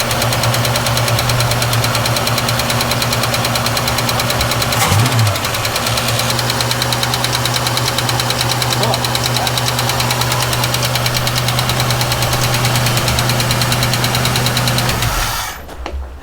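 1967 Ford Mustang engine running steadily at a fast idle with a light ticking, which the owners put down to a rattly PCV valve. It is switched off abruptly near the end.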